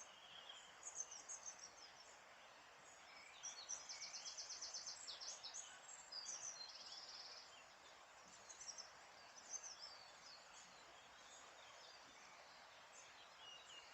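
Faint songbirds singing over a steady background hiss outdoors: scattered high chirps, with two rapid trills in the middle few seconds.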